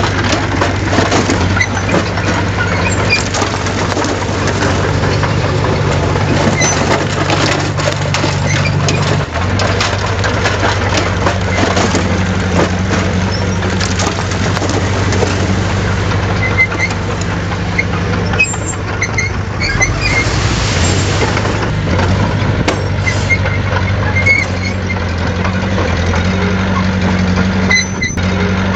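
Diesel engine of heavy earth-moving machinery running steadily under a dense crackling and rattling noise, with the engine note shifting about nine seconds in.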